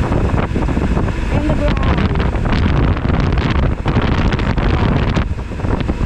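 Wind rushing over the camera microphone on a moving Suzuki V-Strom 1000XT motorcycle, with a steady low rumble of engine and road underneath.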